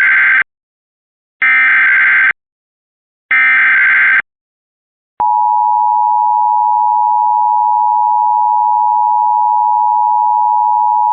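Emergency alert broadcast for a tornado warning: the end of one screeching digital header burst and two more, about two seconds apart, then from about five seconds in a steady loud alert tone.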